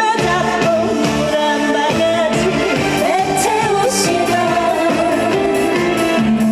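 A trot song performed live: a solo singer's voice carrying the melody over accompaniment with a steady beat.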